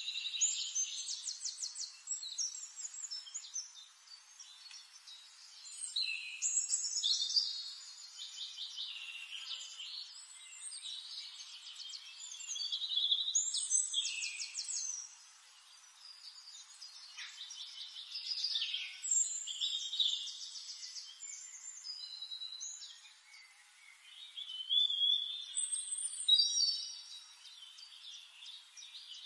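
Small songbirds singing: phrases of chirps and fast trills a few seconds long, repeated with short pauses between.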